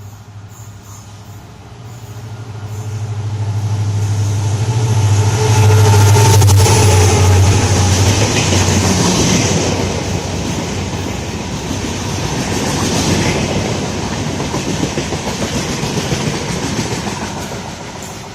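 Shatabdi express train passing at high speed without stopping. A low hum builds and peaks about six seconds in. Then the coaches rush by with a dense, rattling wheel noise that fades near the end.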